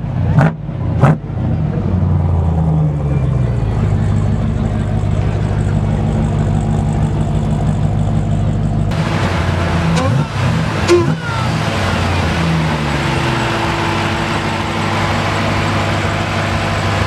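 High-performance car engines running, their pitch rising and falling as they are revved, with a couple of sharp cracks in the first second or so. About nine seconds in, the sound changes abruptly to a different engine running steadily.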